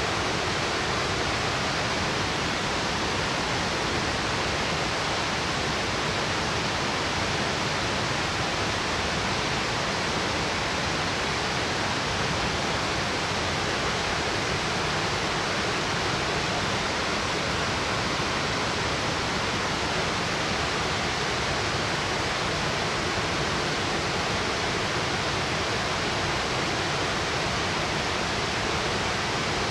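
Waterfall roaring steadily: a 60 m straight-drop fall, its water crashing into the pool below.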